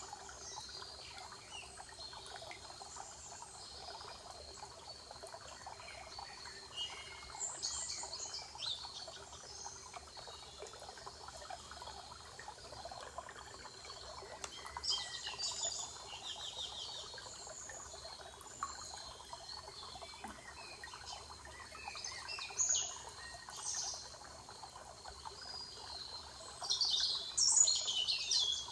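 Songbirds singing short, high phrases every several seconds, with the loudest near the end, over a steady background hiss of forest ambience.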